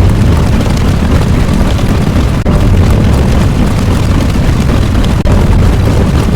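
A loud, continuous rumbling sound effect, heaviest in the bass, running with no letup apart from a couple of brief dips.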